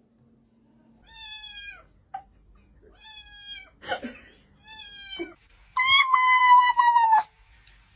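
A cat meowing four times, each meow falling off slightly at its end; the last one, about six seconds in, is the longest and loudest.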